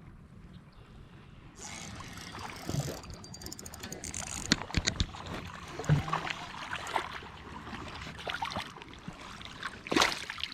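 Water sloshing and splashing, starting suddenly about two seconds in, with many irregular sharp knocks and clicks on top.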